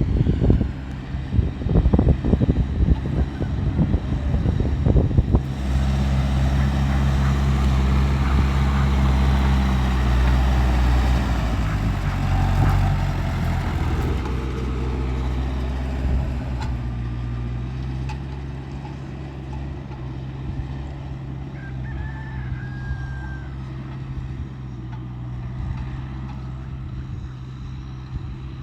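New Holland TL100 tractor's engine running steadily under load while plowing, rising to its loudest and then slowly fading as it moves away. Irregular thumps or gusts are heard over it for the first few seconds.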